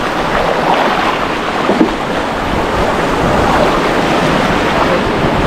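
River water rushing and splashing around a bamboo raft, with wind rumbling on the microphone.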